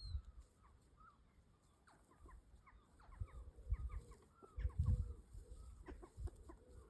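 Hens clucking quietly: a string of short, soft calls that starts about two seconds in and carries on to the end, with a few dull low rumbles on the microphone.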